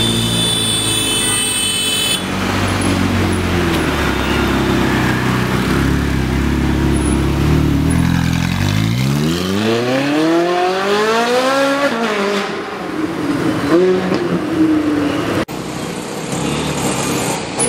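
Ferrari 458 Italia's V8 with an aftermarket exhaust running at low revs as the car rolls past, then revving hard in one long rising sweep about nine seconds in that peaks and falls away around twelve seconds. More engine sound follows an abrupt break near the end.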